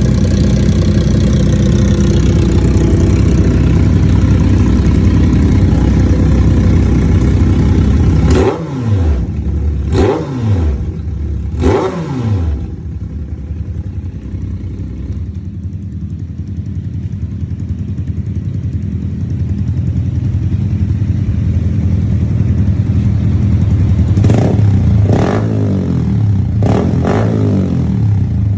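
Motorcycle engine with a modified exhaust idling loudly, then revved in sharp blips: three quick revs about a third of the way in, a quieter idle, and a cluster of four more blips near the end.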